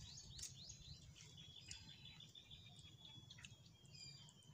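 Faint birds chirping, with a thin high trill, over a low background hiss; a few soft clicks.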